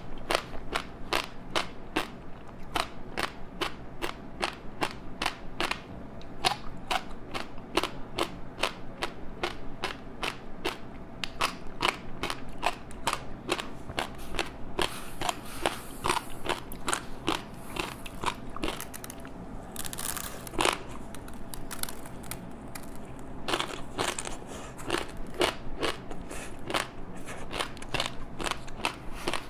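Close-up crunchy chewing of a crispy seaweed-wrapped rice snack: a steady run of sharp crackling crunches, about three a second.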